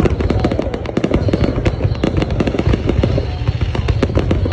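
Fireworks going off: a dense, continuous crackle of many small bursts, several a second, over a low rumble.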